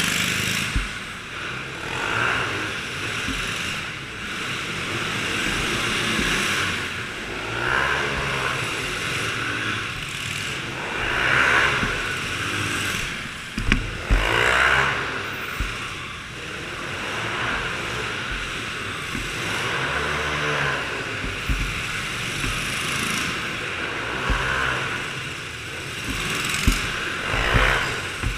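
Small-engined dirt bikes and go-karts riding around, their engines rising and falling in pitch and loudness as they pass by again and again. There are a couple of sharp knocks along the way.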